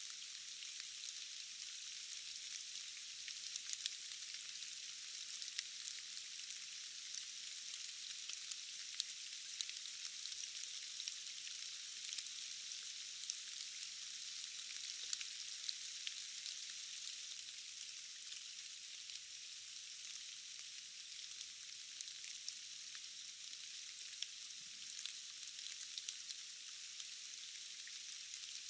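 Steady forest rain: a thin, high hiss with many small drop ticks scattered through it and no low rumble.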